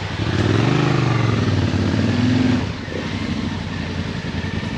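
Yamaha Ténéré 700's parallel-twin engine pulling under throttle, its pitch rising over the first second and holding. Just before the three-second mark the throttle closes and it drops back to a lower, quieter running.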